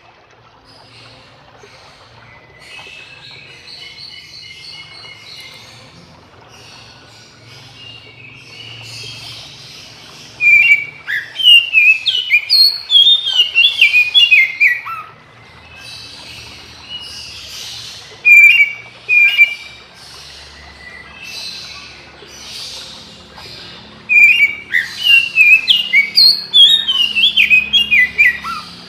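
Oriental magpie-robin (kacer) singing loud phrases of rapid, sharply gliding whistled notes, about a second and a half in, briefly near the middle, and again near the end. Fainter song fills the gaps between them.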